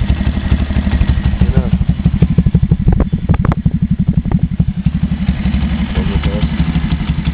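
125cc Lifan single-cylinder four-stroke pit bike engine idling with an even, rapid putter, with a few sharp knocks about halfway through.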